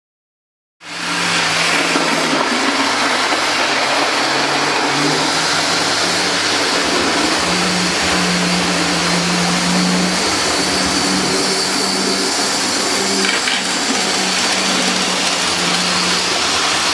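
Diesel locomotive engine running, starting abruptly and then holding steady, its low note stepping up and down every second or two.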